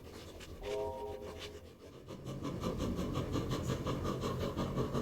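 China Railways QJ steam locomotive: a short chime-like steam whistle blast about a second in, then the locomotive's running noise swelling from about two seconds in, a low rumble with a quick, even rhythm.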